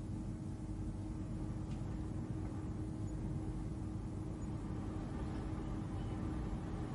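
Steady ambient spacecraft-cabin hum: a low, even rumble with a constant drone tone, part of a sleep soundscape.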